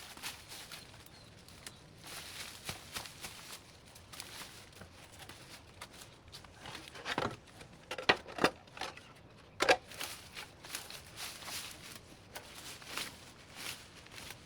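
Rustling of leaves and vines broken by scattered sharp snaps and clicks, as overgrowth is pulled and cut by hand; a few louder snaps come close together in the middle.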